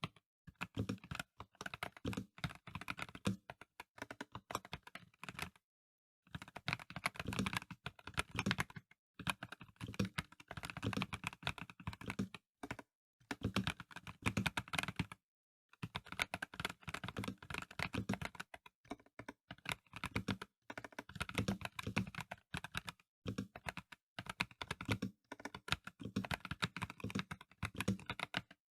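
Dareu A98 Pro mechanical keyboard with VioletGold Pro non-clicky switches being typed on, fast runs of keystrokes broken by a few brief pauses.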